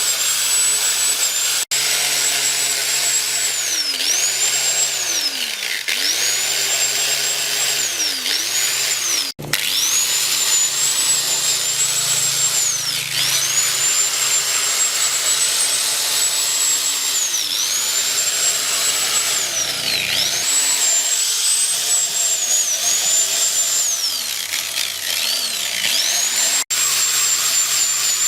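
A handheld electric power tool runs at high speed, its motor whine sagging in pitch again and again as it works under load, then climbing back. It breaks off abruptly a few times.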